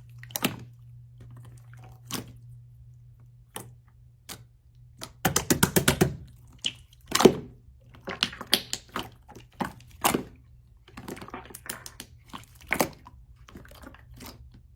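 Slime being squeezed and pressed by hand, making irregular sharp clicks and pops, with a quick run of about eight crackles around five to six seconds in.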